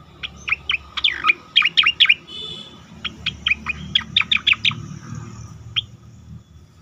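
A cucak koreng singing: two quick runs of sharp, whistled notes that sweep steeply in pitch, with a short buzzy note between the runs and one lone note near the end.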